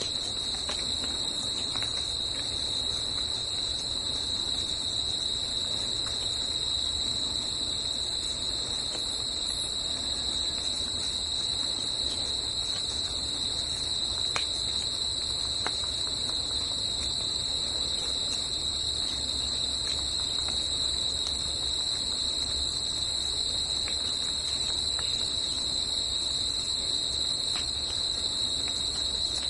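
A continuous insect chorus, a steady high-pitched buzzing trill that does not let up, with a faint low rumble beneath it.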